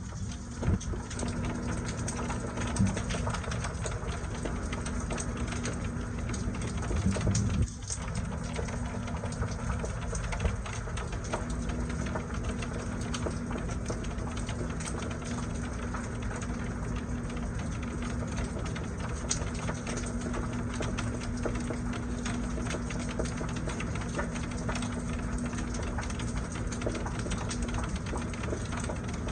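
Steady rain falling, with a constant low machine hum running underneath.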